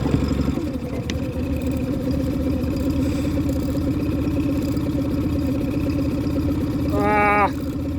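Boat engine idling steadily with an even throb. A short pitched sound cuts in briefly about seven seconds in.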